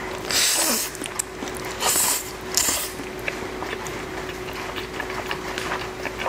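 Close-miked eating sounds of Korean black bean noodles: three short loud slurps in the first three seconds, then chewing with many small wet clicks.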